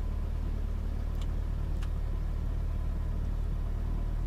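Cessna 172S Skyhawk's four-cylinder Lycoming engine and propeller running at low power with a steady low drone. Two faint clicks come a little over a second in and again about half a second later.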